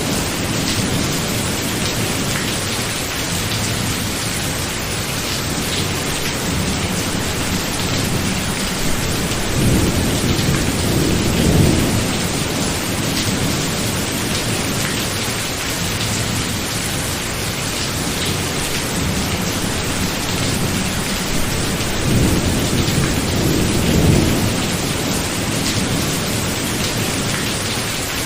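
Steady heavy rain of a thunderstorm, with rolls of thunder rumbling low and swelling about ten seconds in and again near the end.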